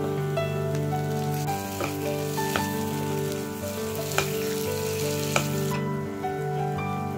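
Ful (mashed fava beans) with a melting lump of niter kibbeh spiced butter sizzling in a nonstick frying pan, while a spoon stirs it and knocks against the pan a few times. The sizzle dies down near the end.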